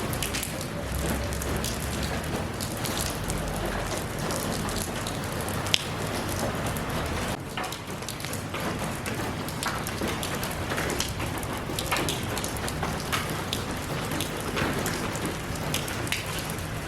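Steady rain falling, with many separate drops striking close by as sharp ticks, and one louder tick about six seconds in.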